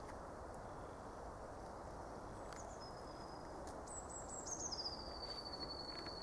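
A small bird gives a thin, high note, then a longer high whistle that steps down in pitch, faint over a soft background hiss.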